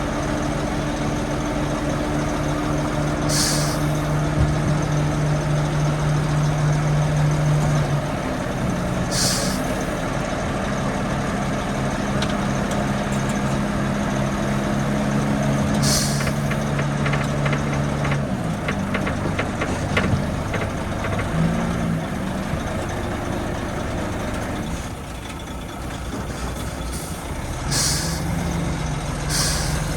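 Heavy diesel earthmoving machinery running, its engine note holding steady and then shifting pitch a few times. Short sharp air-brake hisses cut in every few seconds.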